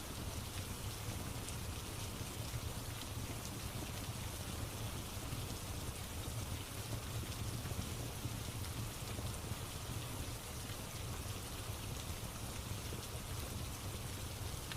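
Steady rain falling, with a low rumble underneath and fine crackling of a wood fire in a fireplace mixed in.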